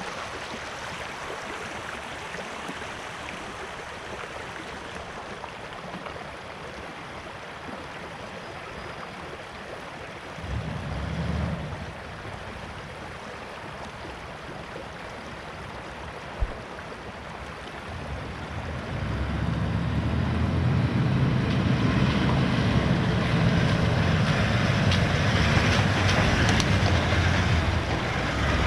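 Vehicle driving on a track: steady engine and road noise that grows louder with a heavier low rumble about two-thirds of the way in, and a single sharp knock near the middle.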